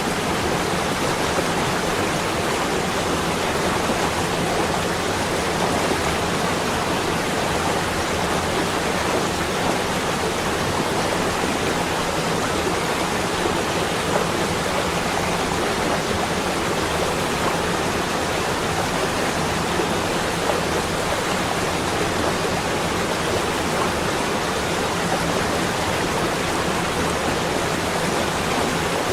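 Steady, even rushing noise that holds at the same level throughout, with no distinct events: a relaxation ambience track meant to evoke falling snow.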